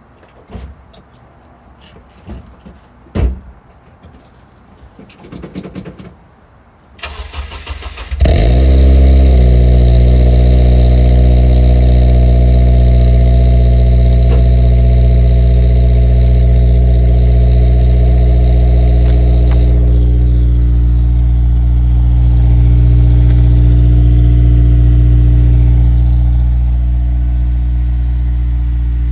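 2008 Honda Civic Si's 2.0-litre four-cylinder, breathing through an aftermarket header, high-flow cat, resonator delete and Yonaka muffler, is cold-started: a few quiet clicks and a knock, then the starter cranks for about a second and the engine catches. It then runs at a steady high cold fast idle that eases down a little twice as it begins to settle.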